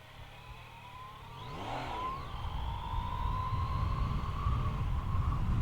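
2020 Yamaha MT-09's three-cylinder engine pulling away and accelerating, heard from the rider's helmet, with a slowly rising engine whine and growing low rumble. A brief rising-and-falling sweep comes about two seconds in.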